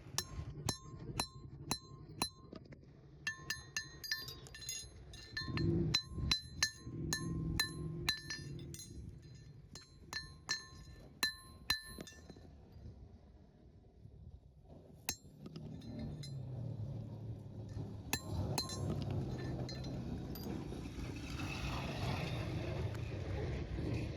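Farrier's metal tools clinking and tapping: a run of sharp ringing metal-on-metal strikes, about two a second, that stops about twelve seconds in. A few more strikes follow, then a low rumbling noise takes over.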